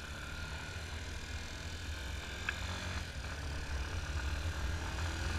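Yamaha Fazer 250's single-cylinder engine running while the motorcycle is ridden, with steady low wind rumble on the helmet-mounted camera. A single short click comes about two and a half seconds in, and the sound grows slightly louder toward the end.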